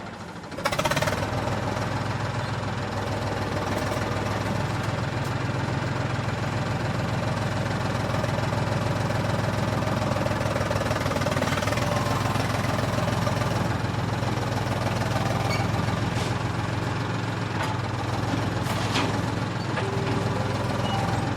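Diesel tractor engine running steadily with a fast knocking beat. It grows louder about a second in.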